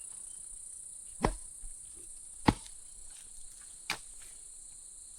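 Crickets chirring steadily, with three sharp knocks about a second and a half apart; the middle knock is the loudest.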